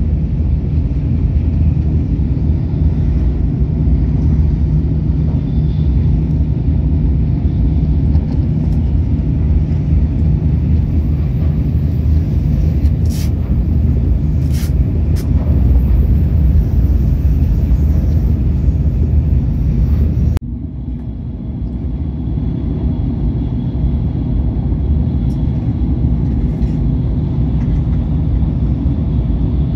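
Steady low rumble of a Shinkansen bullet train running at speed, heard from inside the carriage. About two-thirds of the way through, the sound drops suddenly and then builds back to the same steady rumble.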